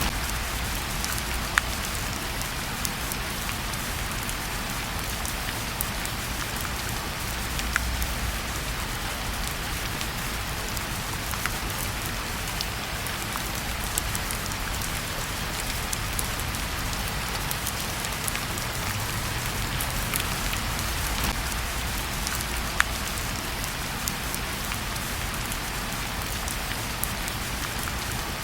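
Steady, even rain falling on a surface, with a few scattered sharp ticks.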